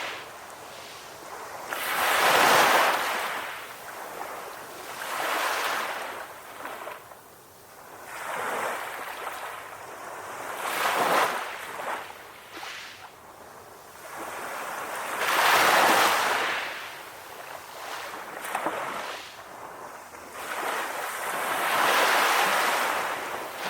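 Sea waves breaking and washing on a shore, a surging hiss that swells and fades every few seconds, with the biggest breakers about 2, 16 and 22 seconds in.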